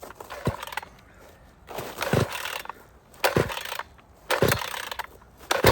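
Recoil starter of a 46cc two-stroke petrol chainsaw being pulled five times, about once a second, each pull a short rasp of the cord and the engine turning over. It is a cold start on full choke, and the engine has not yet caught.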